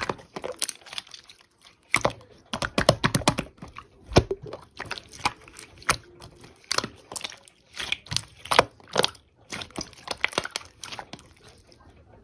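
Slime being squished and pressed by hand, making a string of sticky clicks and pops.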